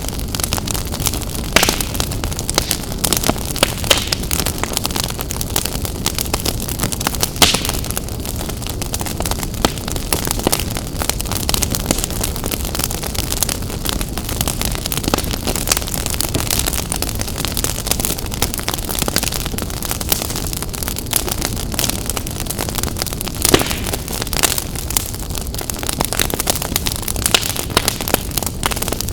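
Wood fire burning in a fireplace: a steady rushing hiss with frequent crackles and sharp pops, a few of them louder than the rest.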